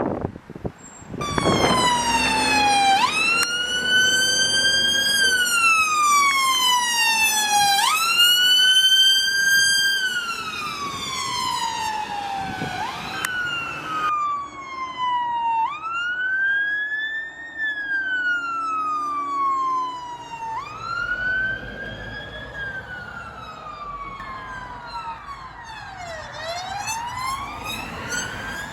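Emergency vehicle sirens sounding a slow wail, the pitch rising and falling about every five seconds, first from an ambulance and then, more quietly, from a Scania P280 fire engine. Near the end a police car's siren takes over with a quicker sweep.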